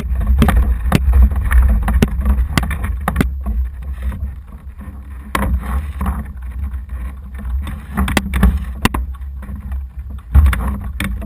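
Kayak on the water: paddle splashes with sharp, irregular knocks, over a heavy low rumble.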